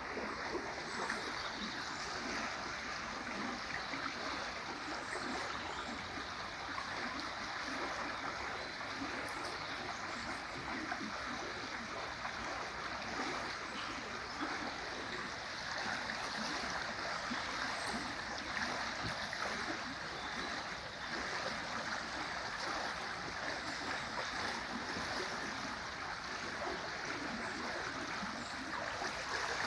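River in high flow rushing steadily beneath a footbridge: a continuous even rush of water.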